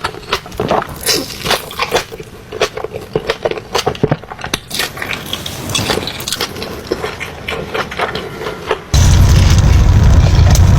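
Close-miked eating: irregular crunching and crackling bites and chews of crisp food. About nine seconds in it cuts suddenly to a loud, steady, low rumbling noise.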